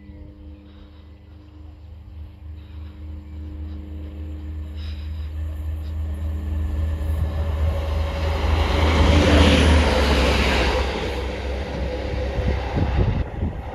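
Transport for Wales Class 175 diesel multiple unit approaching and passing at speed, its low engine drone and the rush of wheels on the rails growing to a peak about two-thirds of the way in, then fading as it goes away.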